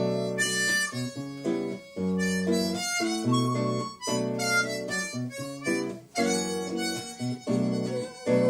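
Harmonica playing the tune in full chords, in phrases with short breaks about every two seconds, over acoustic guitar accompaniment.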